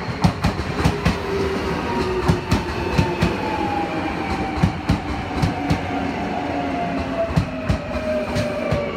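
Keio Inokashira Line 1000-series electric commuter train passing close by: steady rolling rumble with many sharp wheel clacks over the rail joints, several a second, and a motor whine that falls slowly in pitch.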